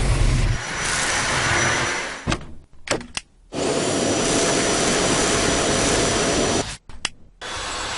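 Dyson V8 cordless stick vacuum's motor running in stop-start runs as its trigger is squeezed and released. The whir runs for about two seconds and cuts off, comes back in a few short blips, then runs steadily for about three seconds. It stops again and starts once more near the end.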